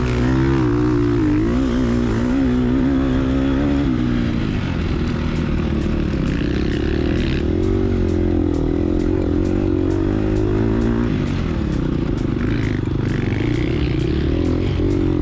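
2022 Gas Gas EX250F's 250 cc four-stroke single-cylinder dirt bike engine running hard under race load, its revs rising and falling continuously with the throttle.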